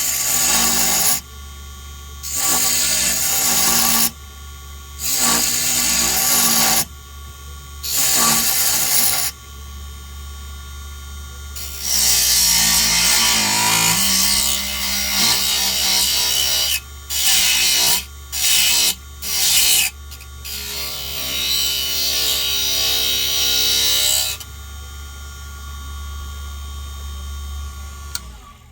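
A small wood lathe runs with a steady motor hum while a tool is pressed against a spinning pine lure blank. This gives repeated rasping cutting passes of one to four seconds each, with quieter gaps in between.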